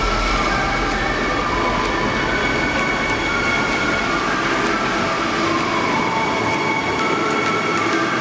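High-speed electric train running, with a steady high whine and motor tones that shift in pitch.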